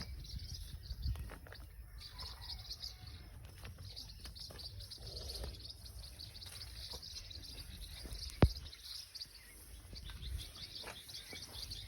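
Birds chirping continuously over a low rumble, with one sharp click about eight and a half seconds in.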